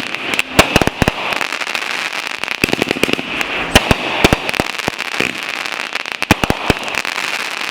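Fireworks going off: a dense, irregular string of sharp cracks and pops, often several in quick succession, over a continuous hissing crackle.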